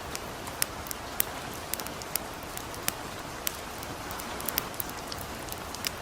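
Soft, steady rain hiss with a campfire crackling through it: sharp, irregular pops about twice a second.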